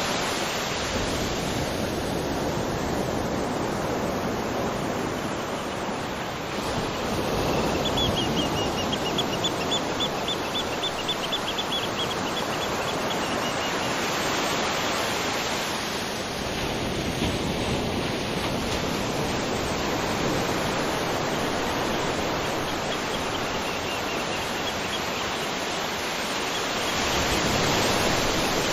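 Steady rushing of a waterfall, a dense even hiss of falling water with gentle swells. A faint high, rapidly pulsing trill rises above it twice, once in the first half and again near the end.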